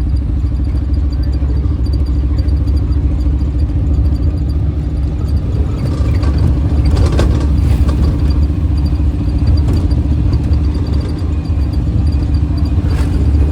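A motor vehicle engine running steadily with a loud low rumble, with a few clattering knocks about halfway through and near the end.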